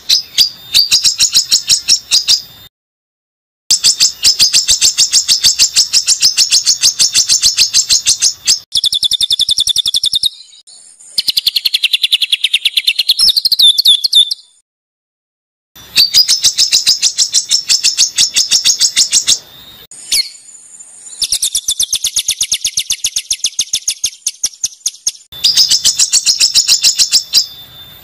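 Songbird tutor ('masteran') recording of harsh, rapid-fire calls: long trains of very fast repeated high-pitched notes in runs of several seconds, each run cut off abruptly by a short silence before the next begins.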